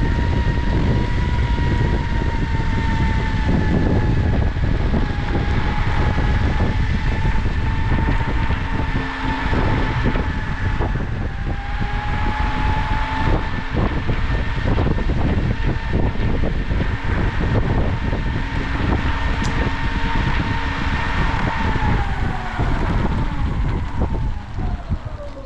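Electric skateboard hub motors on an Exway Flex Hub whining at steady cruising speed over the heavy rumble of 105 mm Cloudwheel urethane wheels rolling on pavement, with frequent small ticks from surface joints. About three seconds before the end the whine falls in pitch as the board slows down.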